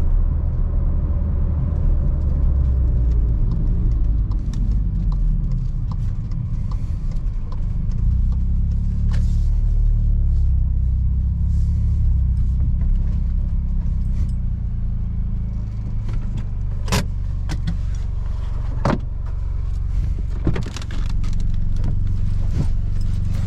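Seat Ibiza FR's 1.0 TSI three-cylinder engine with a Friedrich sport exhaust, running with a steady low rumble at fairly even revs while driving. A few sharp clicks and rattles come in the last third.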